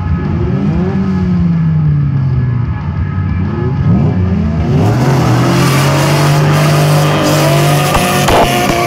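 Several drift cars' engines revving, their pitch rising and falling as they set off. Tyre noise from sliding cars builds about five seconds in.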